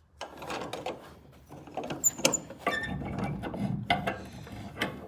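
Irregular mechanical clicks, knocks and rattles, like small hardware being handled, with a sharp metallic click about two seconds in.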